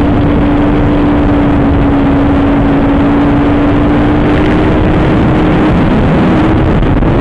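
Superbike engine running at steady high revs, heard from a phone inside the rider's helmet, under heavy wind rush. The engine note holds nearly level, sags slightly partway through, then rises again at the end.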